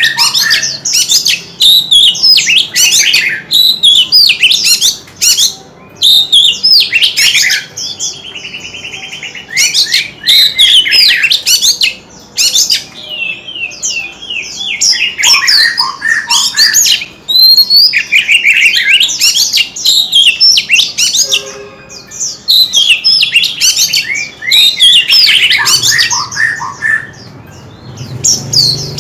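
White-rumped shama singing: long, loud runs of rapid, varied whistled phrases with a buzzy stretch in between, broken by a few brief pauses.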